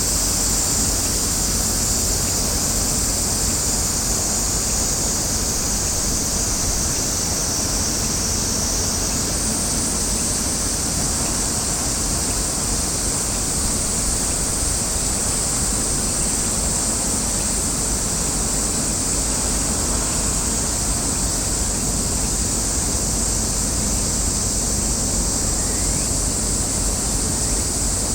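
Steady outdoor ambience: a constant high-pitched hiss over a low rumble, with no distinct events.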